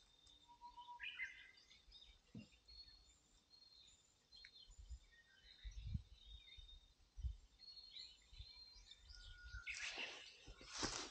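Faint outdoor quiet with scattered small bird chirps, a few soft low thumps around the middle, and rustling near the end.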